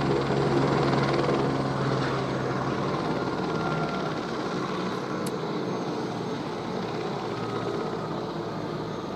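Helicopter landing, its rotor and turbine running steadily and slowly getting quieter; a low hum drops away about three seconds in.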